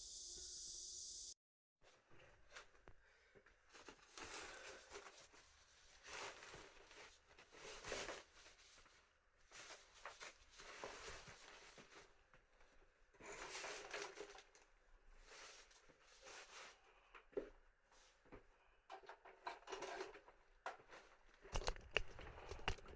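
Faint, irregular rustling and scuffing noises, with a steady hiss for the first second or so before a short dead gap.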